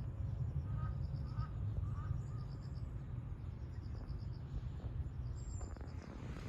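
Outdoor ambience: an insect chirping in short, evenly repeated groups of high pulses, with a few faint short bird calls a second or two in, over a steady low rumble.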